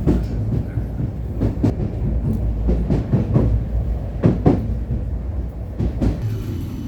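Vityaz-M tram running along the track with a steady low rumble. Its wheels clack over rail joints in quick pairs about every second and a half.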